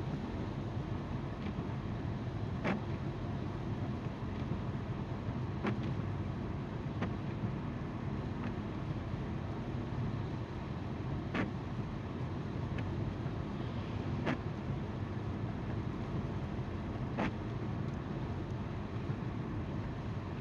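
Car interior driving noise: tyres rolling on the road and the engine's steady hum, with a sharp tick about every three seconds.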